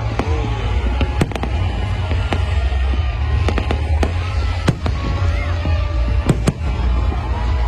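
Aerial fireworks going off in a rapid, irregular string of a dozen or so sharp bangs over a steady low rumble.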